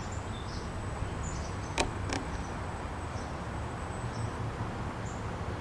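Outdoor backyard ambience: a steady low hum with a few short, faint high chirps and a thin high whine, broken by a single sharp click about two seconds in.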